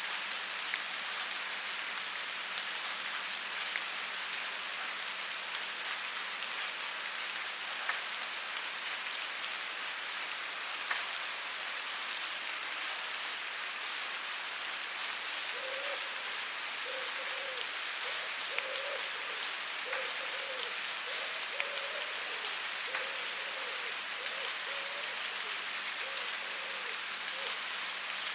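Steady rainfall pattering on a surface, with occasional sharper drop ticks. In the second half a faint low-pitched chirp repeats about once or twice a second.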